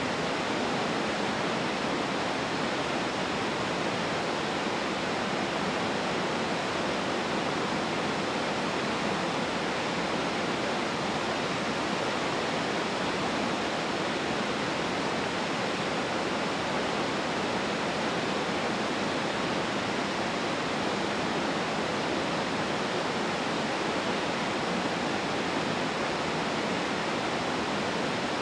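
Waterfall pouring: a steady, even rush of falling water with no breaks or surges.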